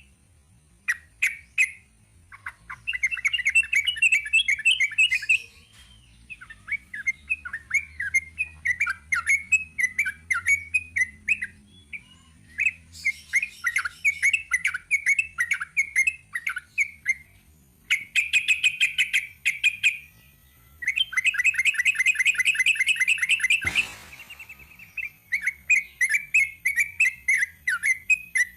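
Yellow-vented bulbul (trucuk) singing its long rapid 'ropel' song: fast chattering runs of repeated notes in bursts of a few seconds, broken by short pauses. A single sharp knock comes near the end.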